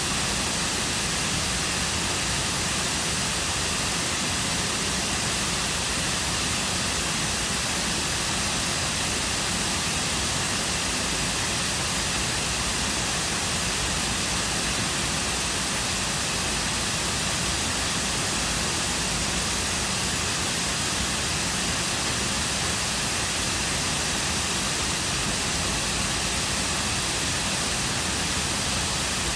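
Man-made cascading waterfall pouring into a lake: a steady, even rush of falling water with no breaks.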